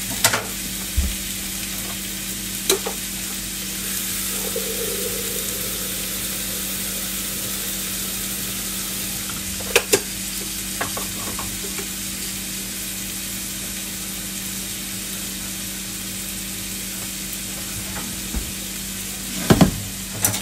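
Pork slices and sliced onions sizzling as they sauté in a pot, with a steady low hum underneath. A few sharp knocks come near the start, around the middle and near the end.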